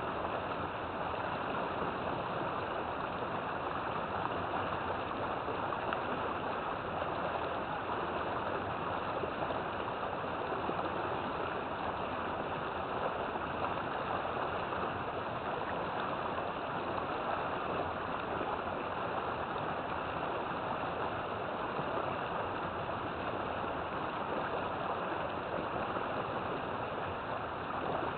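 River water flowing steadily, a constant rushing and gurgling with no breaks.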